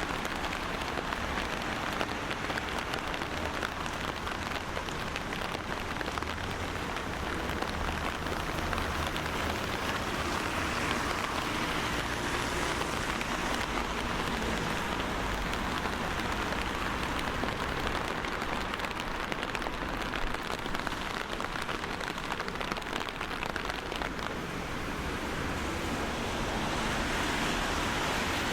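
Steady rain falling, a dense patter of drops with a low rumble underneath, growing a little louder near the end.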